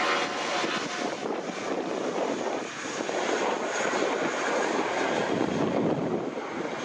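Airbus A320's IAE V2500 turbofan engines at take-off power: steady, dense jet noise with a faint high whine on top.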